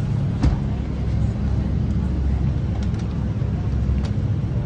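City street traffic: a steady low rumble of passing vehicles, with a sharp knock about half a second in and a couple of fainter clicks later.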